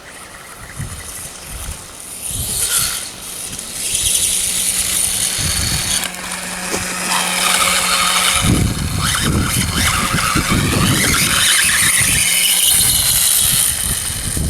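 Electric RC dirtbike running, its motor and drivetrain whining high and rising and falling in pitch with the throttle, louder from about four seconds in, over low rumbling noise.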